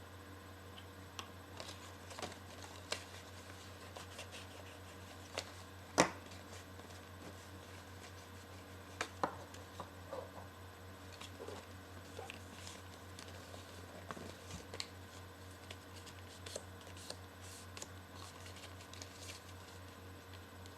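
Sheets of paper being handled and folded: scattered rustles, creases and taps, with one sharp click about six seconds in, over a steady low hum.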